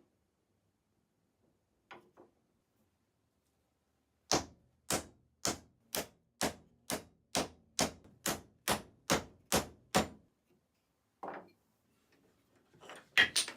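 A steady run of about thirteen sharp hammer strikes, roughly two a second. A single softer knock follows about a second later, and a louder clatter comes near the end.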